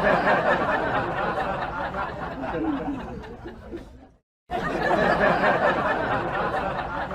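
Several people's voices laughing and chattering, broken by a brief silence about four seconds in.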